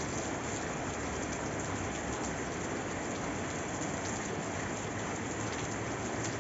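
Steady rain falling on a surface: an even hiss with a scatter of faint individual drop ticks.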